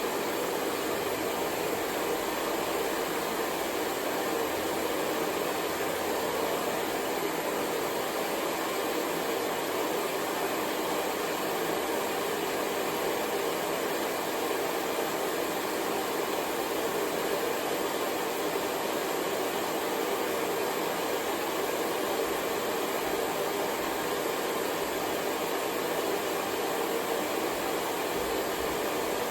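Hair dryer blowing steadily: an even rushing hiss with a faint hum under it, holding the same pitch and level throughout.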